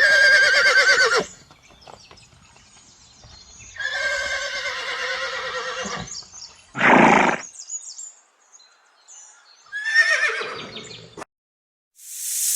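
Horse whinnying three times, each call a loud, shaking, wavering neigh lasting one to two seconds, with a short noisy blow between the second and third.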